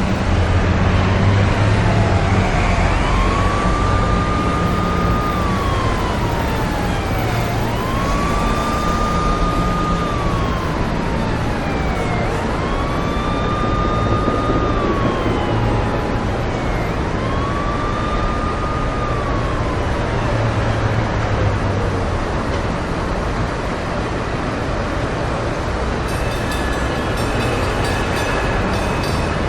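Emergency-vehicle siren wailing over steady road-traffic noise with low engine rumble: four slow cycles, each rising quickly, holding a high note, then sliding down, before the siren stops about two-thirds of the way through. A faint high tone and rapid ticking come near the end.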